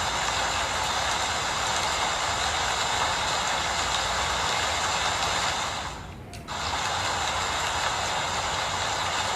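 Steady rain falling, an even hiss that dips away briefly for about half a second roughly two-thirds of the way through, then comes back.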